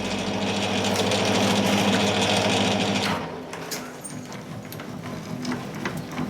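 Metal lathe running and turning down a drive shaft, a steady motor hum under a hiss of cutting, stopping abruptly about three seconds in. A few light clicks follow.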